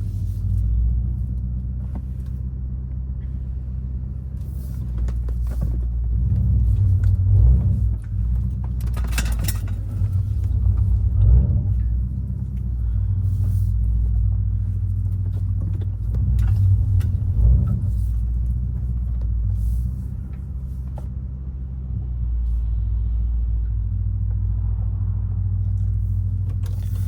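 Twin-turbo V8 of a BMW 550i running at low revs with a deep, steady rumble through an H-pipe, catless downpipes and a deleted muffler, swelling a few times as it is given a little more throttle.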